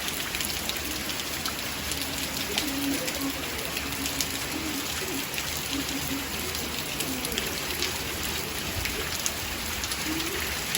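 Steady rain falling, with many individual drops pattering and ticking on surfaces.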